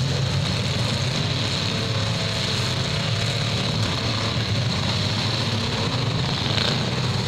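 Engines of several demolition derby cars running and revving together in a steady, loud mechanical din.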